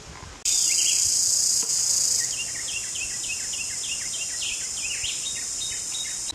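A steady, high-pitched insect drone with a small bird chirping rapidly over it, about four short chirps a second. It starts abruptly about half a second in, drops in loudness about two seconds in, and cuts off at the end.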